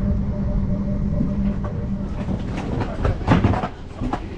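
Inside a moving passenger train: a steady running hum, then from about halfway irregular clattering and knocks of the wheels over the track, loudest near the end.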